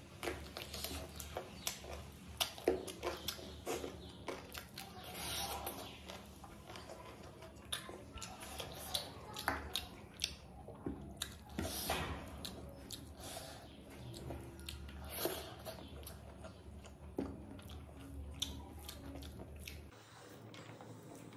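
Close-up eating sounds: a spicy chicken leg being chewed and bitten with wet mouth clicks and smacks, mixed with fingers squishing rice on a plastic plate. The sounds come as many short, irregular clicks and bursts.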